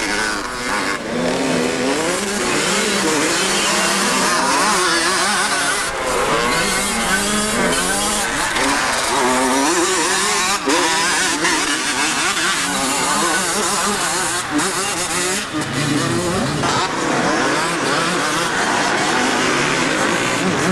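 Several motocross bikes running on a dirt track, their engine notes rising and falling and overlapping as riders accelerate and ease off.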